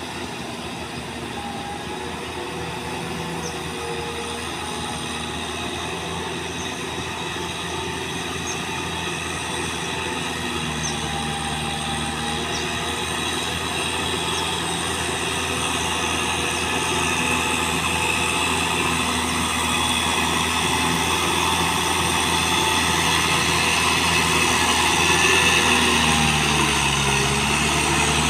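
Kubota tractor's diesel engine running steadily under load while plowing, growing steadily louder.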